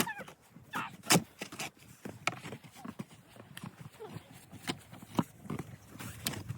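A series of irregular crunches and scraping knocks in heavy, wet snow.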